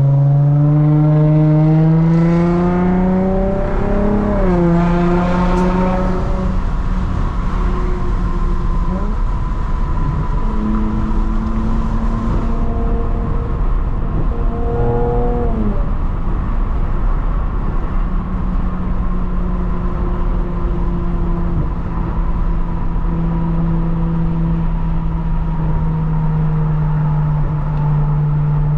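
Lexus IS350's 3.5-litre V6 with a catless midpipe and muffler-delete axle-back, accelerating through the gears: the note climbs for about four seconds and drops with an upshift, climbs and drops again about halfway, then settles into a steady cruising drone.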